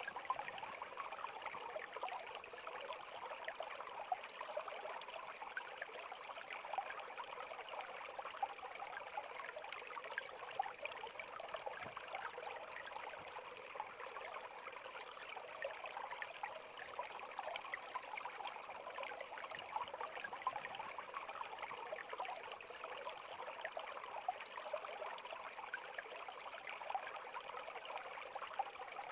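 River water flowing steadily over rocks, a continuous babbling rush with small splashes throughout.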